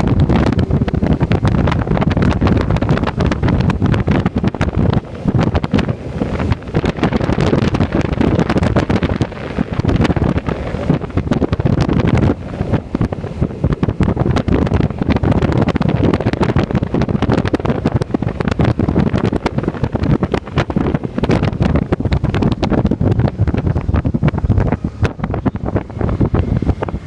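Wind buffeting the microphone on a moving motorcycle: a loud, ragged rush of air with a steady low rumble beneath it.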